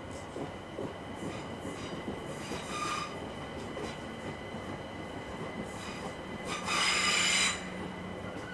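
Electric train running past on the rails, with a thin, steady high-pitched squeal from the wheels. Near the end comes a louder burst of high-pitched screeching lasting about a second.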